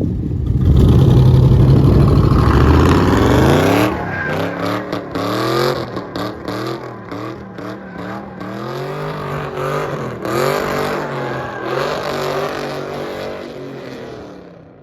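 Car engine revving hard under heavy throttle, then climbing in pitch and dropping back again and again as the car is driven hard, fading away near the end.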